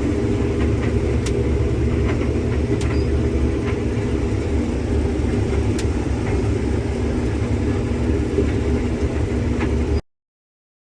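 A vehicle engine running steadily, a low drone with a held hum, that cuts off suddenly near the end.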